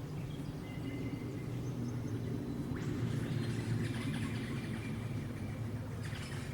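Forest birds calling with thin, high whistled notes over a steady low rumble. About three seconds in, a dense, rapid crackling sound starts and carries on.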